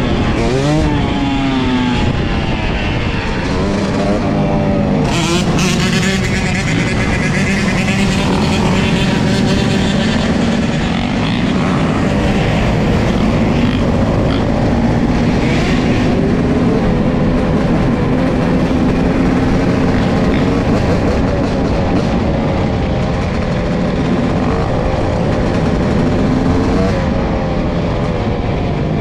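Dirt bike engine revving up and down through the first few seconds, then running steadily at speed, its pitch slowly climbing.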